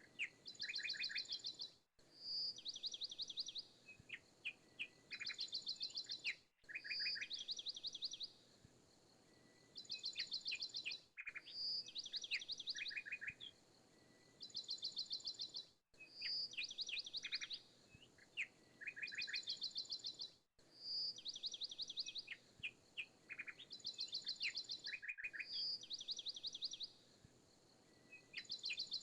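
Looped recording of bird song: the same few seconds of high chirps and fast trills repeat about every four and a half seconds, with a brief dropout between each repeat.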